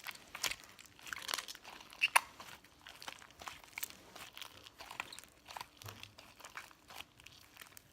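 Foam slime being kneaded and squished by hand, with irregular small crackles and sticky pops.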